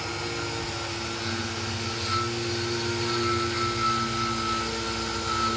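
Machine tool running steadily during machining: a continuous hum and whine over a noisy hiss, with a second tone joining after about a second and a higher whine after about three seconds.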